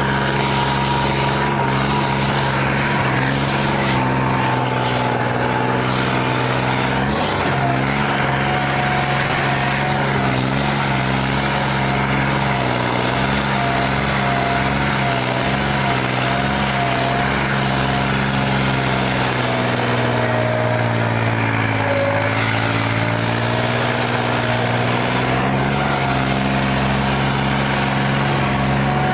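Diesel tractor engine running steadily. Its pitch wavers and sags for a moment a little past the middle, then recovers.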